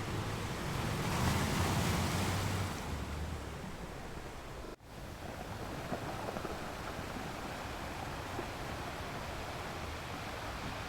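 Ocean surf: waves breaking and washing in as a steady rush, with one wave swelling louder about a second or two in. The sound drops out for an instant about five seconds in, then the even surf carries on.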